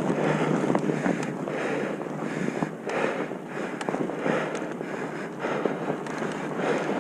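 Wind buffeting a moving microphone, a rushing noise that swells and eases, with scattered small clicks and rattles.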